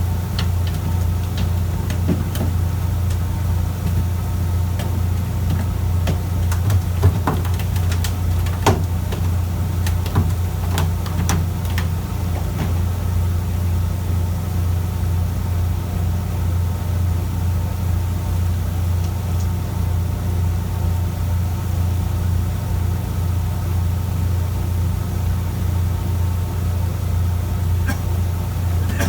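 Fishing boat's engine running steadily with a low drone. A few sharp clicks and knocks come through about a quarter to a third of the way in.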